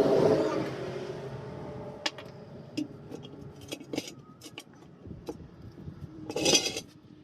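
Scattered light clinks and knocks, as of metal tools being handled at a tyre-repair stand, with a louder noisy swell at the start and a short rush of noise about six and a half seconds in.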